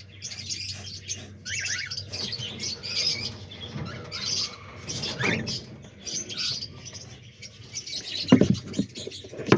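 A flock of cockatiels chirping and squeaking, with a few short rising calls. A couple of loud thumps come about eight seconds in.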